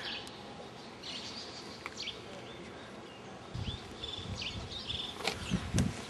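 Birds chirping with short, hooked calls over steady outdoor background noise. In the second half a low rumble comes in, with a few sharp knocks near the end that are the loudest sounds.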